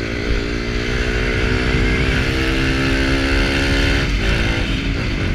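Small Kawasaki Ninja motorcycle with a straight-through sport exhaust (bare pipe) running at steady revs, the engine note held nearly level with a short dip about four seconds in.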